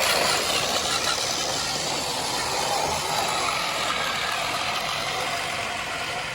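Huina 1573 radio-controlled dump truck running, a steady mechanical drone with a faint whine over it.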